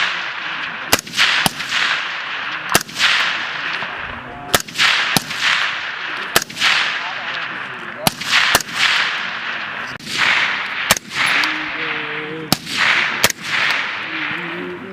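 Rifles firing single shots on a range at an irregular pace, about a dozen in all. Each sharp crack is followed by a long echoing decay.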